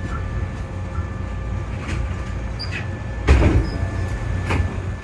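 Hankyu 7300 series train standing at a terminal platform: a steady low hum from the stopped train with a few faint steady tones, some light clicks, and one louder clunk about three seconds in.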